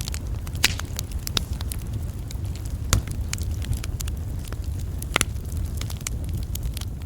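Campfire crackling: irregular sharp pops and snaps, a few louder ones about three and five seconds in, over a steady low rumble.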